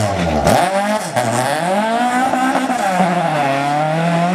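Rally car engine revving hard, its pitch dropping sharply about half a second in, then climbing and falling again as the driver lifts off and gets back on the throttle through the gears.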